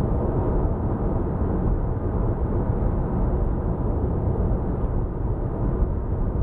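Steady road and wind noise inside the cabin of a 2014 Lexus CT 200h hybrid driving at speed, heavy in the low end, with no rise or fall in pitch.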